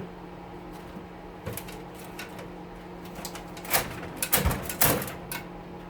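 Scattered clicks and light rattles of metal parts and wiring being handled while an oven is dismantled, busiest around four to five seconds in. Under them runs the steady hum of a wood stove's blower fan.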